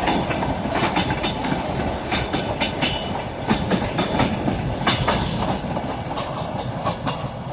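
Freight train wagons rolling past, their wheels clattering over rail joints in a quick, irregular run of clicks over a steady rumble.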